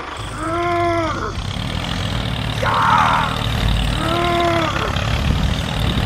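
A low, steady engine-like rumble as the toy tractor pulls its loaded trailer through mud. Over it come short high-pitched voice-like cries: two that rise and then fall, and two rougher squeals between them.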